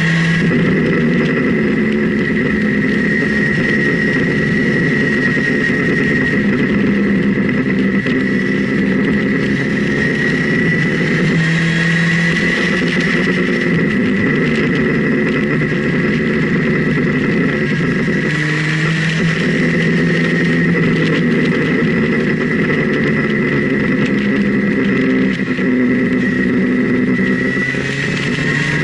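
Motorcycle engine running at road speed, recorded from a camera mounted on the bike, with wind rushing past. The engine note rises and falls several times with the throttle, over a steady high whine.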